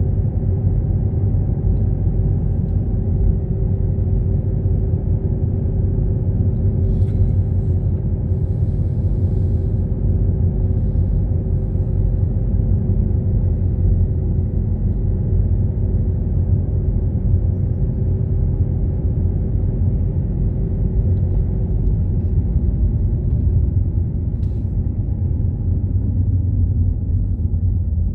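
Car driving at a steady pace: a constant low rumble of engine and road noise with a faint steady hum, and a brief faint hiss partway through.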